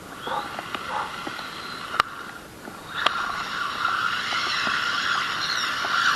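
Arrma Mojave Grom RC truck's electric motor whining as it drives and slides, steadier and louder over the second half, with two sharp clicks about two and three seconds in.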